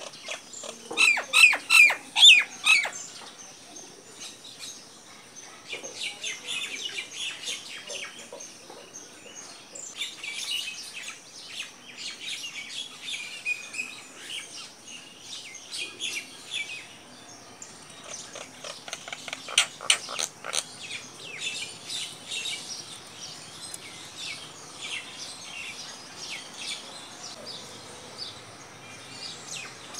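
Wild birds chirping and calling. A loud, rapid run of calls comes about a second in, and another comes about two-thirds of the way through.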